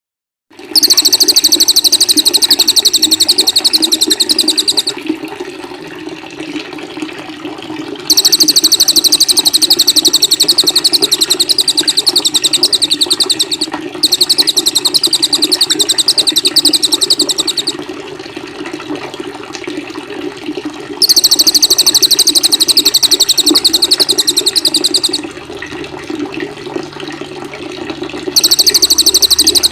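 Songbird singing long, very rapid high trills in bursts of about four to six seconds with short pauses between, over a steady rush of running water that continues through the pauses.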